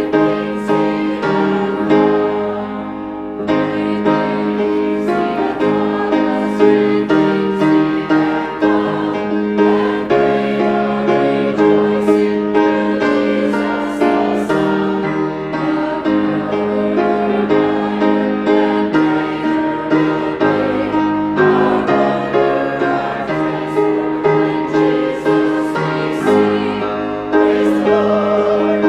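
Church music: a choir singing with piano accompaniment, in slow held chords that change every second or so.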